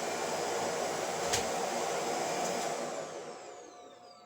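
Shark vacuum cleaner's motor running steadily, with a single sharp click about a second in. About three seconds in it is switched off and the motor winds down with a falling whine.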